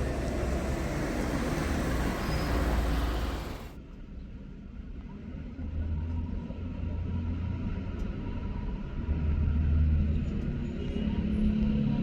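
A motor vehicle running: loud rushing noise that cuts off abruptly about four seconds in, then a lower, steady engine rumble.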